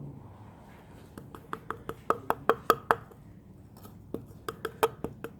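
Quick series of light taps on a cup, about five a second, each with a short ring, in two runs with a brief pause between them, as baking soda is knocked into the cups.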